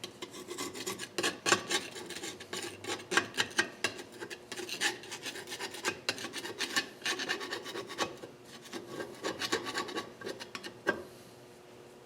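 Gasket residue being scraped by hand off a Nissan KA24DE's aluminium cylinder head: a run of quick, irregular rasping strokes that stops about a second before the end.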